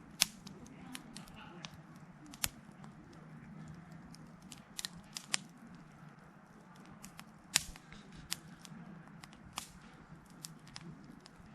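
Wood fire crackling, with sharp, irregular pops over a steady low hum, a few of them much louder than the rest.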